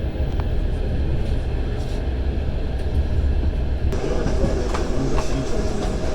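Passenger train running, heard from inside the carriage: a steady low rumble of wheels on rails with scattered short clicks. About four seconds in, the noise turns brighter and harsher.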